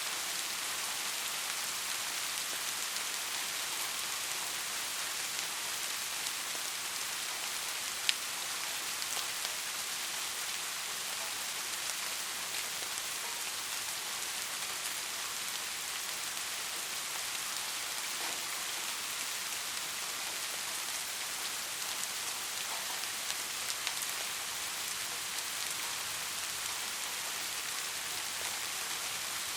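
Steady rainfall, an even hiss of drops falling on a surface, with a few louder single drop ticks, the sharpest about eight seconds in.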